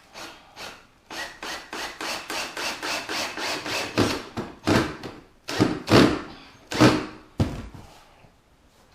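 A fastener being driven into wooden floor blocking. A quick run of short knocks, about six a second, lasts some three seconds, then six heavier separate blows follow. The worker takes the noise as the sign that it is biting in well.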